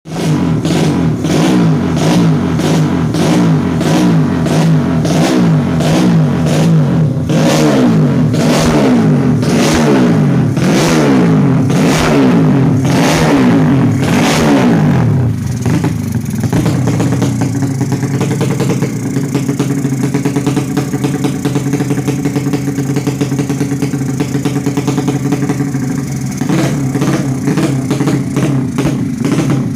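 Yamaha Jupiter Z drag bike's single-cylinder four-stroke engine, built up to 200cc and running through a DOS racing exhaust, warming up. For about fifteen seconds it is revved in quick repeated throttle blips, then it settles to a steady idle.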